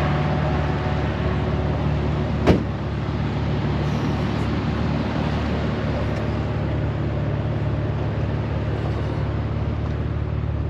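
Car engine idling steadily, with a single sharp knock about two and a half seconds in.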